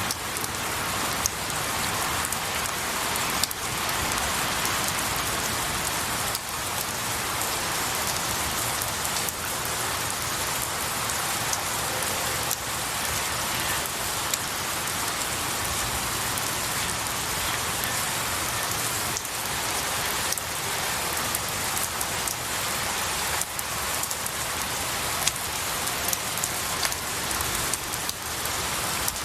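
Steady rain falling on pine needles and trees, an even patter with many individual drops ticking sharply.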